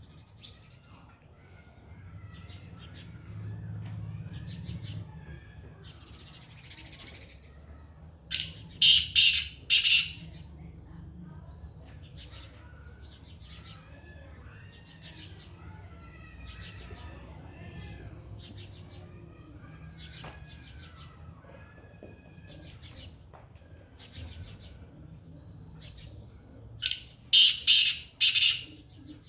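Black francolin calling twice, each call a loud run of four quick notes lasting under two seconds, the first about eight seconds in and the second near the end. Fainter chirps, whistles and trills of other small birds go on between the calls.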